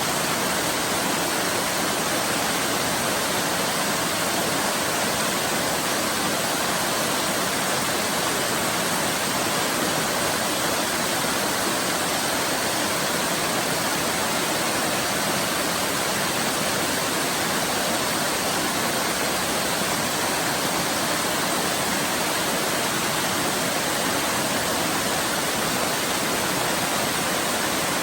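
A waterfall pouring steadily, a dense, even rush of falling water with no let-up.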